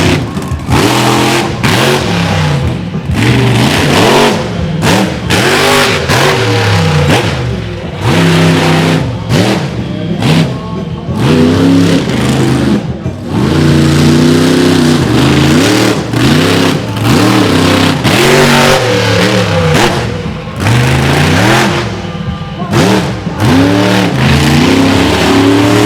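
Monster truck engine revving hard, its pitch climbing and falling again and again as the throttle is blipped, with a few short lulls between bursts.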